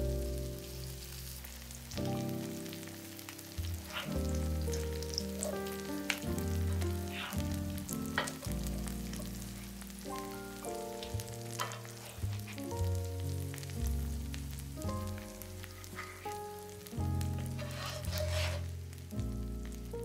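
A zucchini fritter sizzling as it fries in shallow oil in a nonstick pan, with scattered clicks and scrapes of a spatula and a louder stretch of sizzle near the end. Background music with slowly changing chords plays throughout.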